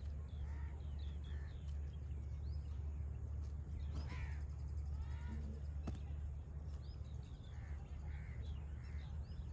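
Birds calling, with many short chirps and a few louder harsh calls, over a steady low rumble.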